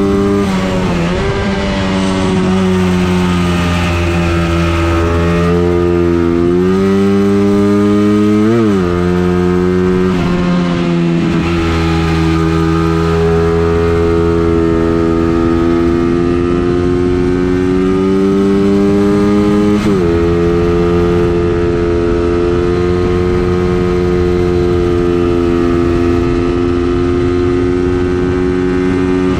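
Engine running hard on a circuit lap, its pitch climbing slowly under throttle and dropping sharply a few times, near 9 seconds and 20 seconds in, as it changes gear or lifts for corners.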